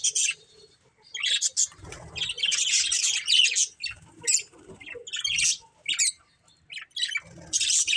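Budgerigars chirping and chattering in quick, busy bursts, broken by short pauses in the first second and just after six seconds, picking up again near the end.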